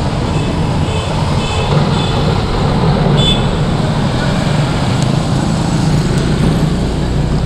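Steady street traffic: vehicle engines running with a constant low rumble, with a few short high tones in the first half.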